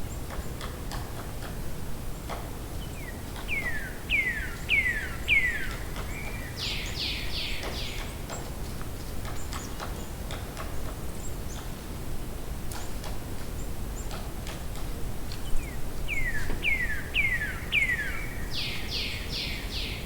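A distant woodpecker feeding, giving scattered, irregular light taps as it pecks. Over it a songbird sings twice: each phrase is four quick falling slurred notes, then four higher notes.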